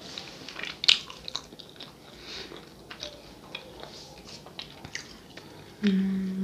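Close-miked chewing of a soft sonho (Brazilian filled doughnut) with guava paste filling: moist mouth clicks and smacks, with a louder click about a second in. A short steady hum near the end.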